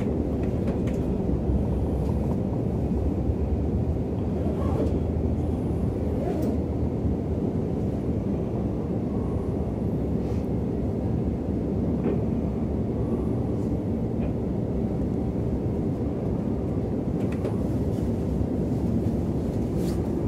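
Steady low rumble of an Intercity train running along the line, heard from inside the passenger coach, with a few faint clicks now and then.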